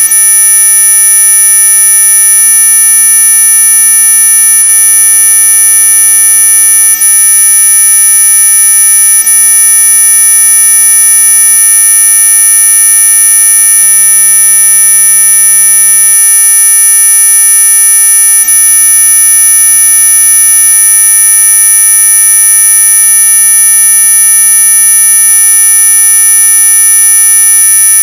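Synthetic anti-mosquito repellent tone: a loud, steady electronic whine made of several fixed pitches at once, the strongest very high-pitched, with fainter lower hums beneath. It does not change at all.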